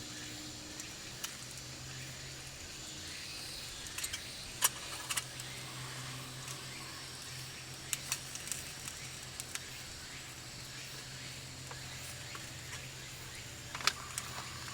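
Wood campfire crackling, with a few sharp pops and clicks scattered through, over a steady low hum.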